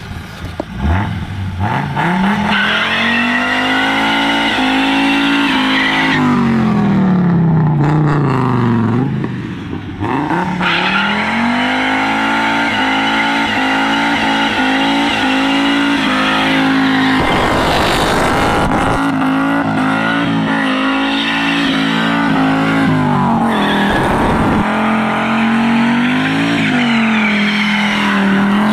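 Audi 90 2.2's five-cylinder engine held high in the revs while drifting and doing burnouts, the note sagging and climbing again as the throttle comes and goes, over the noise of spinning, screeching tyres. The engine dips for a few seconds about a third of the way in, and there are two brief loud rushes of noise later on.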